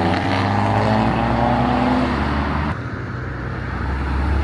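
A car engine accelerating away, its pitch rising, cuts off abruptly about two and a half seconds in. A lower, steady engine drone then builds toward the end.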